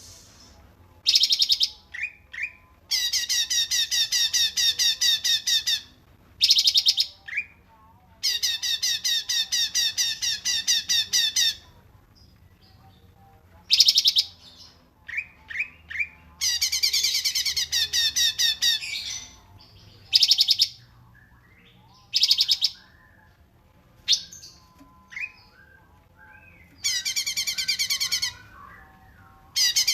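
A small songbird singing: long, loud trills of rapidly repeated high notes, each lasting about three seconds, with short sharp calls between them.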